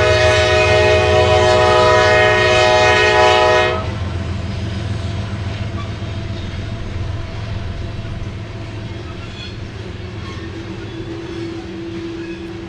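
A train's air horn sounds one long multi-note chord that cuts off about four seconds in, followed by the steady rumble of the train rolling past.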